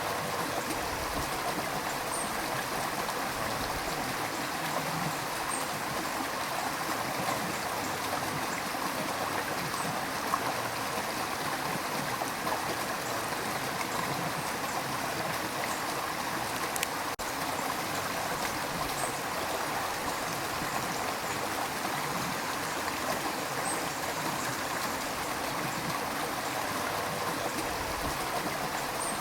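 River water rushing and gurgling over rocks, a steady, dense wash of flowing water with small splashes.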